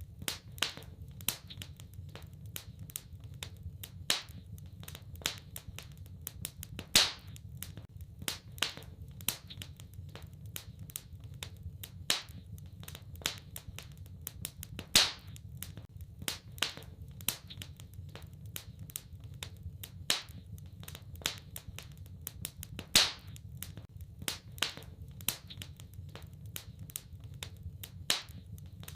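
Wood fire crackling in a fireplace: constant small snaps and ticks with a sharper, louder pop every few seconds, over a steady low rumble.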